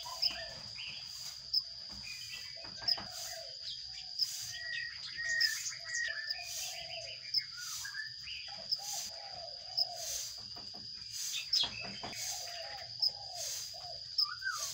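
Sparrows chirping over and over in short series of notes. A steady high-pitched whine runs underneath, with a faint tick about every second and a half.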